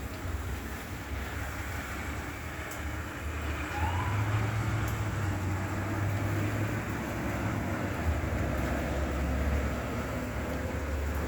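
Steady low rumble of vehicle engines with road hiss, getting a little louder about four seconds in, and a short rising squeak at about the same point.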